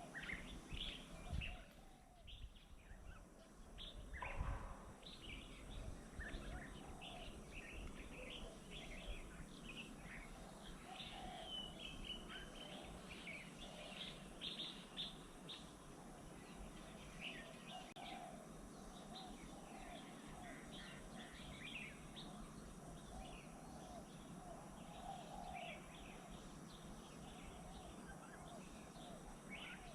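Several small birds chirping and calling in quick, overlapping short notes over a faint steady outdoor hiss, with a couple of low thumps in the first few seconds.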